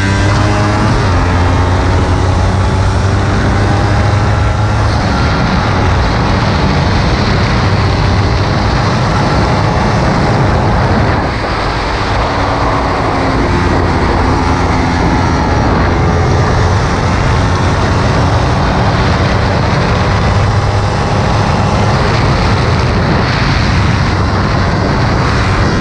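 Kawasaki Ninja 300's parallel-twin engine running hard, its pitch rising and falling with the throttle and gear changes, under a heavy rush of wind noise. The engine drops off briefly about eleven seconds in.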